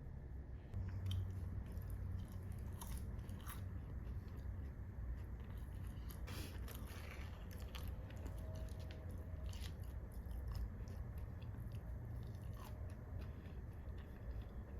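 Scattered soft crunches and clicks, close by, over a steady low hum that comes in about a second in.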